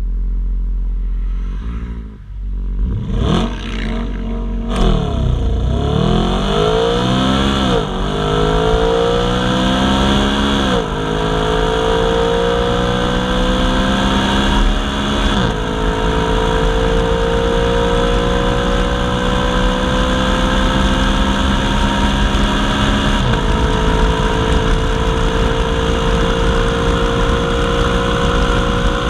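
Audi RS5 with its stock exhaust accelerating through the gears. The engine note climbs steadily and drops at four upshifts, each gear held longer than the last.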